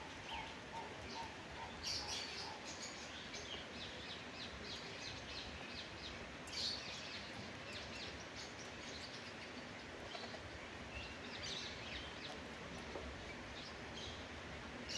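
Small birds chirping: short, high chirps in scattered bursts, the loudest about 2, 6.5 and 11.5 seconds in, over a steady background hiss.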